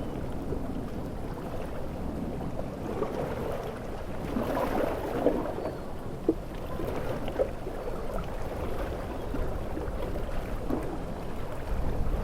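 Stormy sea surf with wind: a steady rushing wash of waves that swells about four seconds in, with a few short sharp splashes.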